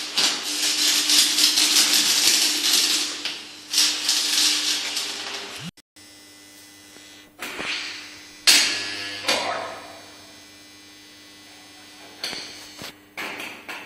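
Arc welding with a homemade welder built from three microwave-oven transformers on unrectified AC: the arc crackles and sizzles for about five seconds, then breaks off, followed by a few short bursts as the arc is struck again. A steady transformer hum runs underneath.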